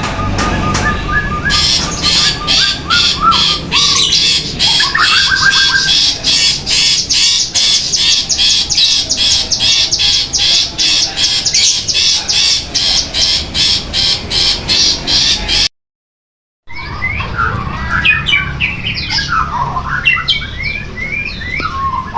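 Caged songbird calling: a long run of harsh, high, rapidly repeated notes at about three a second, then after a sudden break a varied song of gliding whistled notes.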